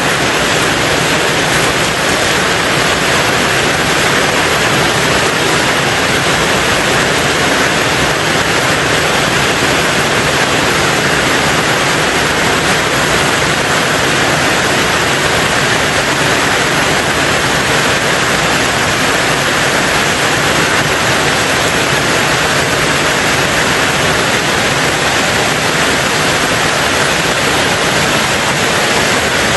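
Steady heavy rain on a tin roof: a dense, even hiss that holds constant, with no separate drops, thunder or other events standing out.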